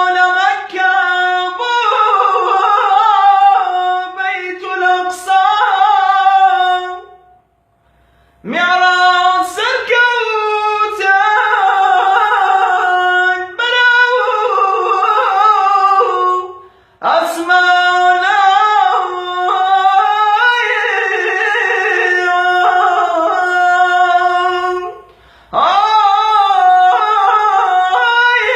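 A man singing an unaccompanied Islamic nasheed in a high voice, with long ornamented phrases broken by short pauses for breath three times.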